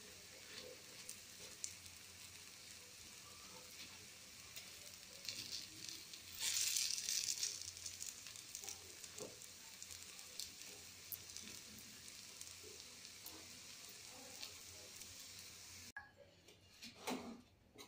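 Gunta ponganalu batter balls frying in oil in a paniyaram pan: a steady sizzle, louder for a couple of seconds about six seconds in, with small taps of a wooden stick turning them. Near the end the sizzle stops and there is one brief knock.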